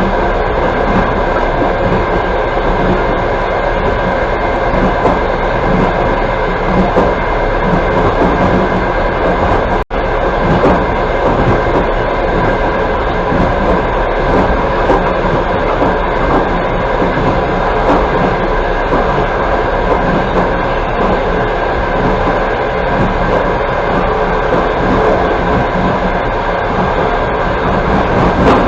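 Steady running noise of a passenger train's wheels on the rails, heard from inside the moving carriage. The sound cuts out for an instant about ten seconds in.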